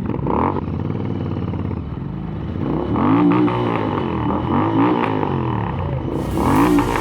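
Royal Enfield Interceptor 650 parallel-twin running through aftermarket AEW exhausts, revving up and falling back about four times, its pitch rising and dropping with each rev.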